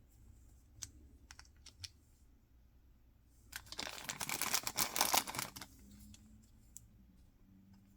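Packaging handled by hand: a few light clicks, then about two seconds of dense crackling rustle from a wrapper or box being worked open.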